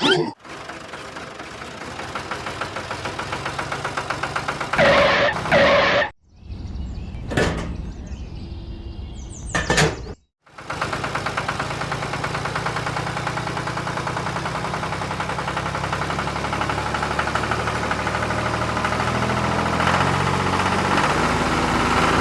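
Small tractor engine running with a steady, rapid pulsing beat, broken by two abrupt cuts, then running steadily and growing slightly louder.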